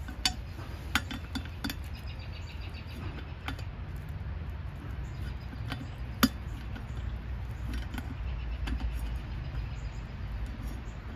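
Light metallic clicks and clinks of a hand tool on a tire valve stem's nut as it is tightened, a few scattered strikes with the loudest a little past halfway, over a steady low rumble.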